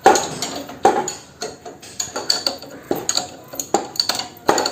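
Hand tools working on steel bolts of a motorcycle's front fork: a series of sharp metallic clicks and clinks at uneven intervals as the bolts are tightened.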